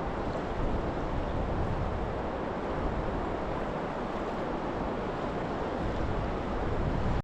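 Steady rush of moving river water, with wind rumbling on the microphone.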